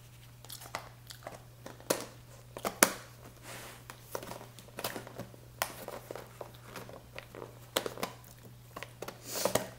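Close-up eating sounds: food chewed and crunched, with irregular sharp crunches and clicks, the loudest about two and three seconds in, over a low steady hum.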